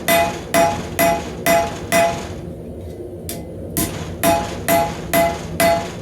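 Hand hammer striking hot rebar on an anvil, about two blows a second, each with a bright metallic ring, while the blade end of a knife is drawn out. The blows pause for about a second and a half near the middle, with one light tap, then resume. A steady low rumble runs underneath.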